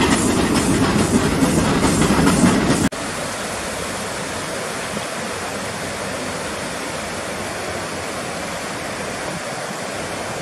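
Nilgiri toy train running on the mountain line, heard from a coach as a loud rumble with rhythmic wheel clatter. About three seconds in it cuts off abruptly. A steady, quieter rush of a small stream tumbling over rocks follows.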